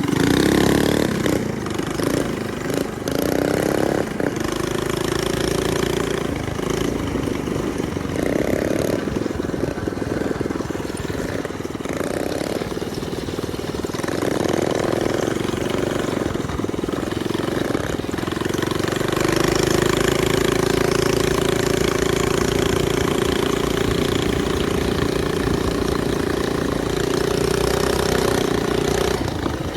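Minibike's small engine running under a rider. The throttle is opened and eased off several times, then held at a steady pitch for roughly the last ten seconds.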